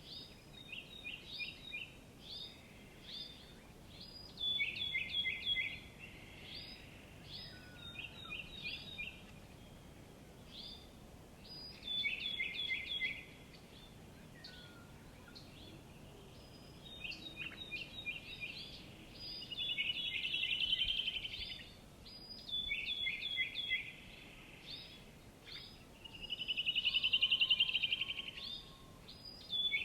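Small songbirds singing: short phrases of quick notes that step down in pitch, repeated every second or two, with a louder fast trill about twenty seconds in and another near the end.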